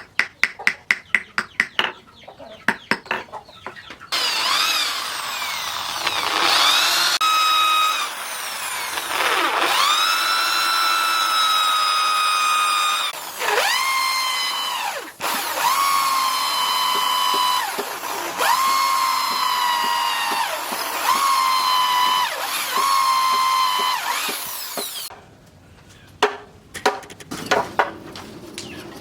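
A small electric power tool whining at high speed, started and stopped several times, its pitch rising as it spins up after each restart. It is framed by quick runs of sharp metal-and-wood knocks at the start and near the end.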